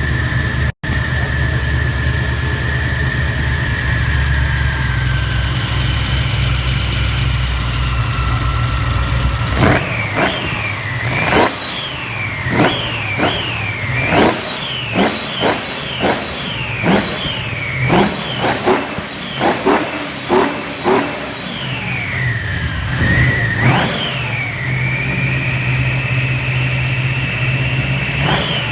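Twin-turbocharged V8 of a BMW E34 540i on its first test run, idling steadily, then blipped repeatedly, more than a dozen short quick revs that each rise and drop back, before settling back to idle near the end.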